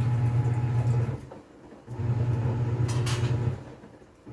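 TCL 7.5 kg top-load washing machine's pulsator motor agitating the wash, running in bursts of about a second and a half with short pauses between as it stops and reverses.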